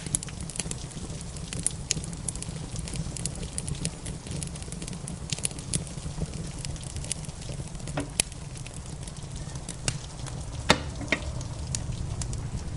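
Wood fire crackling in a fireplace: irregular sharp pops and snaps over a steady low rumble and a soft rush of rain. A few louder pops come about eight and eleven seconds in.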